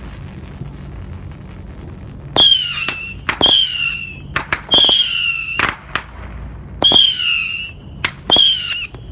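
A consumer firework missile battery firing whistling missiles one after another, starting about two and a half seconds in: five shrill whistles, each starting sharply and falling in pitch, with short sharp pops between them.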